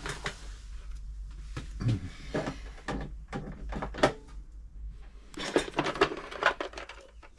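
Irregular clicks, knocks and light clatter of hard parts being handled at a sewing-machine repair bench, with a denser run of clatter about five and a half seconds in.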